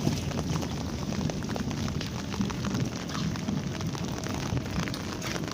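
Heavy monsoon rain falling steadily, a dense patter of many drops hitting surfaces.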